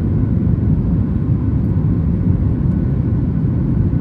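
Steady low rumble inside the cabin of a Boeing 737 MAX 8 airliner during the climb after takeoff: the CFM LEAP-1B engines and the airflow over the fuselage.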